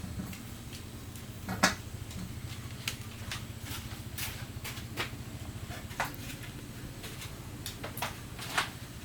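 Scattered light knocks and clicks, one every second or so, the sharpest about one and a half seconds in, over a steady low hum.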